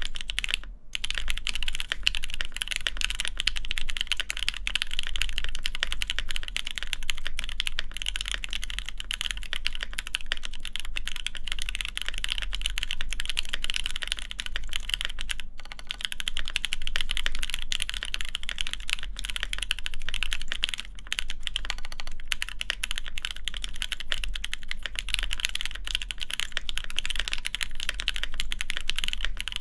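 Continuous fast typing on a DriftMechanics Austin mechanical keyboard with lubed Alpaca linear switches, GMK Space Cadet keycaps and an FR4 plate: a dense, unbroken stream of key clacks. There are brief pauses about a second in and again around the middle.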